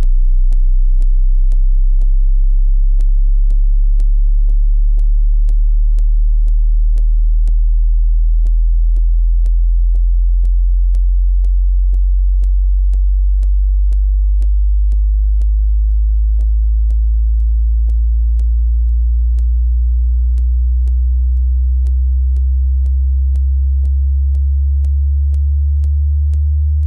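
Electronic sub-bass test track: a loud, sustained very deep bass tone with a light ticking beat about twice a second. About halfway through, a second, slightly higher bass tone grows in alongside it.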